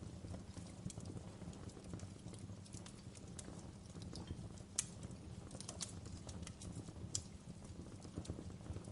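Wood fire in a fireplace crackling: irregular sharp pops and snaps over a low steady rumble of the flames, with the loudest pop about halfway through.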